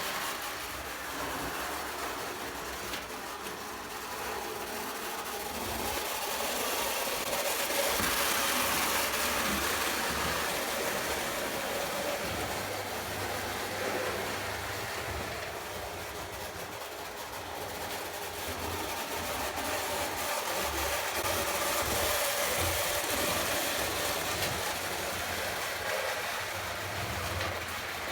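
Lionel O gauge toy train running on tinplate track: its electric motor and wheels rolling on the rails. It grows louder and softer twice as it comes past.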